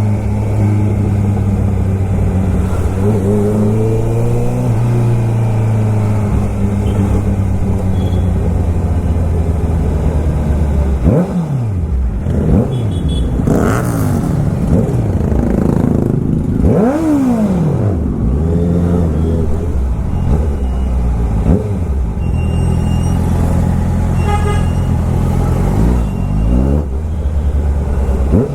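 Superbike engine running in traffic, its steady note broken by several quick throttle blips that rise and fall sharply, mostly in the second half.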